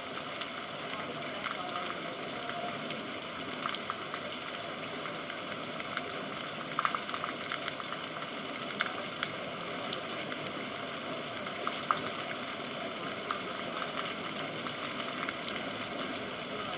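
Steady rain falling, with many scattered sharp drops and drips ticking through it.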